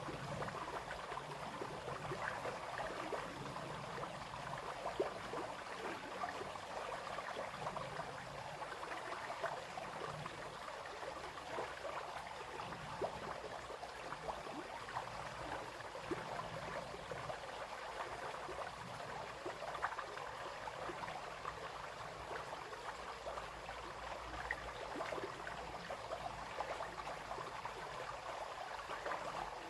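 Brook water flowing and splashing steadily, with a continuous babble of small splashes and gurgles.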